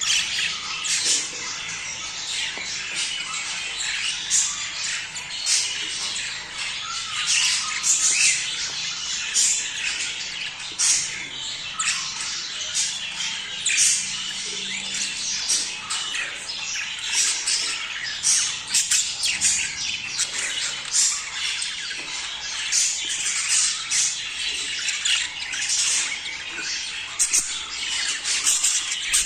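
A flock of budgerigars chattering and squawking, many short, sharp calls overlapping without a break: the busy warble of birds in breeding condition.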